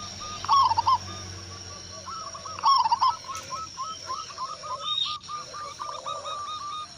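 Zebra doves (local perkutut) calling: a continuous run of short, hooked cooing notes, loudest in two bursts, about half a second in and again near three seconds. Thinner, higher chirps from smaller birds and a steady high whine sound alongside.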